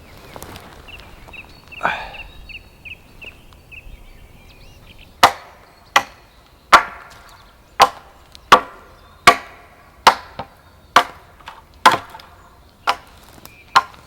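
Wood being chopped: about a dozen sharp blows, roughly one every three-quarters of a second, starting about five seconds in.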